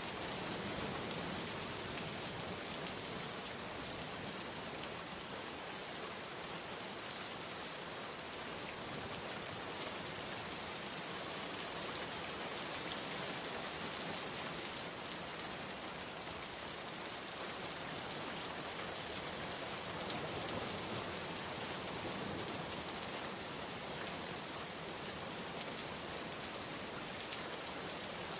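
Steady rain falling, an even hiss of many drops with no breaks or single strikes.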